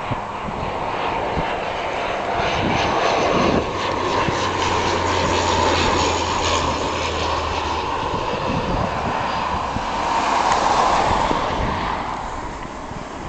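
Aircraft engines running loud as a fixed-wing aircraft lands at an airport. The noise swells twice, around the middle and again a few seconds later, over a low steady hum in the first half, then eases off near the end.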